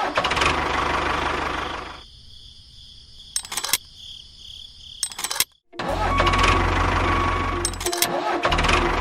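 Tractor engine running, heard in cut-together stretches: a low chugging at first, a quieter gap with a few clicks, then a loud even chugging from about two-thirds of the way in, briefly dropping out near the end.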